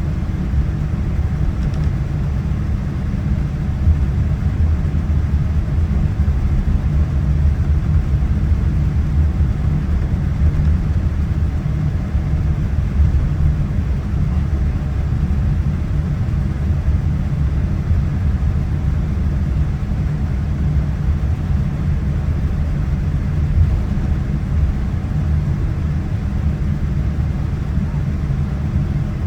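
Steady low rumble inside the cabin of a Boeing 787-9 on the ground, its engines at low power while taxiing, with a fainter hiss of cabin air over it.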